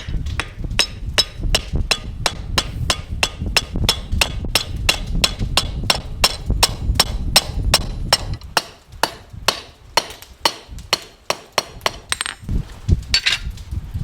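A hammer striking over and over at a steady pace, about three blows a second. A low rumble underneath drops away about eight seconds in.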